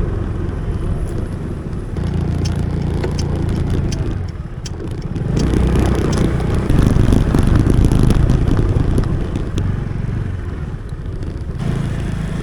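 A 125cc motorcycle running on the road, recorded while riding: a steady low engine note with wind rushing over the microphone, the wind growing louder through the middle and easing again near the end.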